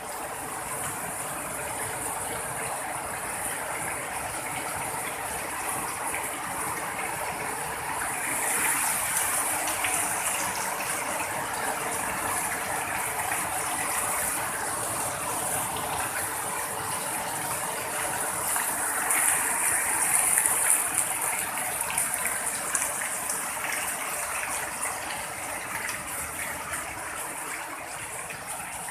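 Heavy rain pouring down in a steady rush, swelling louder about a third of the way in and again about two thirds through.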